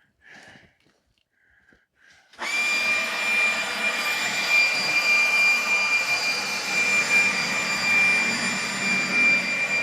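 Leaf blower switched on about two seconds in, then running steadily: a loud rush of air with a steady high whine.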